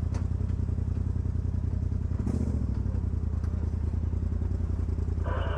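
Off-road vehicle's engine idling steadily with an even low pulse, with a brief clatter a little over two seconds in. A short steady tone sounds near the end.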